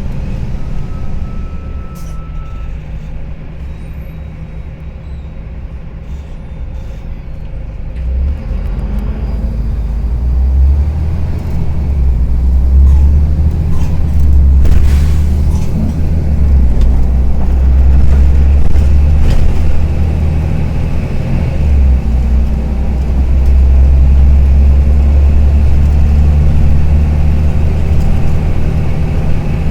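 Karsan Avancity+ articulated city bus engine running with a clattering note. It is quieter at first and then pulls harder from about eight seconds in, a loud steady low drone that briefly dips twice.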